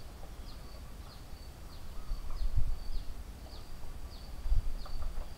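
A bird calling over and over, short high chirps that slide downward, about one every half second, with a thin steady high note running between them. Underneath is a low rumble with a couple of soft thumps.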